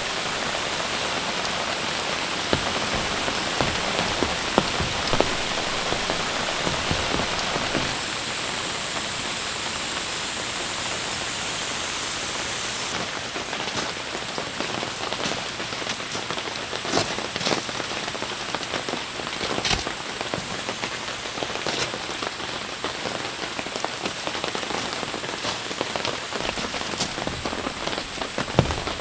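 Steady rain falling, with louder single drops striking sharply here and there.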